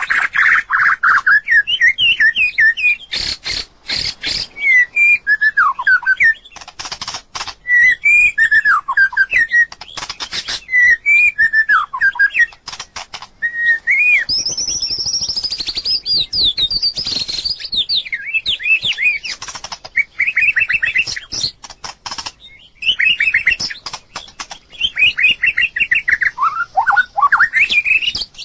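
White-rumped shama singing: a continuous run of varied whistled phrases that glide up and down, broken by clusters of sharp clicks.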